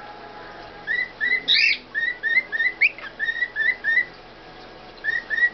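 Pet bird whistling a run of short, slightly rising chirps, about three a second, with a couple of louder upward-sweeping squeaks among them.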